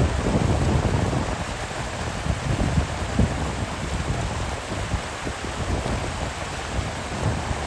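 Steady rush of water, an even hiss across the whole range, with irregular low thumps of wind buffeting the microphone.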